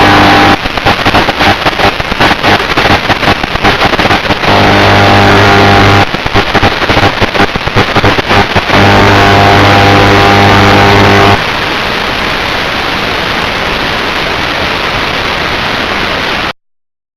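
FPV drone's motors and propellers humming steadily, the hum broken up twice by choppy, crackling stretches. About eleven seconds in it gives way to an even hiss, which cuts off suddenly near the end.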